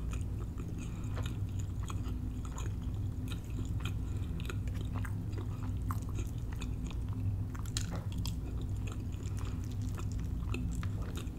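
Close-miked chewing and mouth sounds of someone eating, with scattered small clicks and scrapes of a metal fork in the food on a plate, over a steady low hum.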